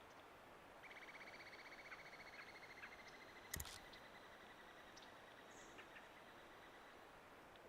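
A faint, high-pitched insect trill. It starts about a second in, pulses fast at first, then thins to a steadier, fainter tone. A single sharp click comes a little past halfway.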